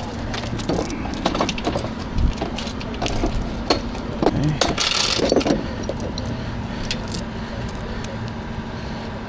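Steel recovery chain clinking and rattling as it is handled and threaded, a quick run of metallic clinks that is busiest in the first half and thins out after about five and a half seconds, over a steady low hum.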